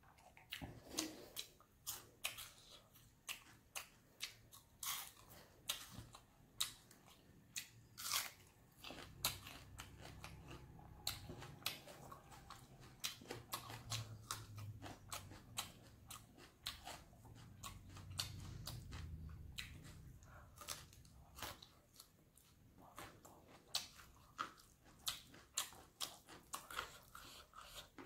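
Close-up mouth sounds of chewing crispy fried dry fish with rice: many sharp, irregular crunches and crackles.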